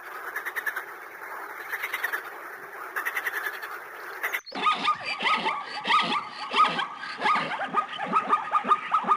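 Animal calls from two recordings, one after the other. First comes a run of rapid repeated calls; then, after a sudden cut about four and a half seconds in, a busier stretch of many short, sharp calls, each falling quickly in pitch.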